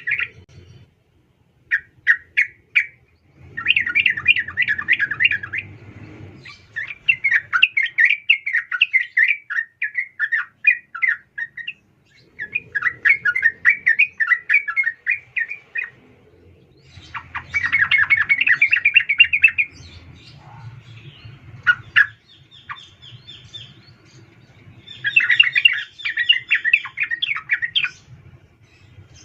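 Yellow-vented bulbul (trucukan) giving bursts of fast, bubbly chattering calls, about eight phrases of one to three seconds each with short pauses between them. It is offered as a female's call to a male, used as a lure to set male bulbuls singing.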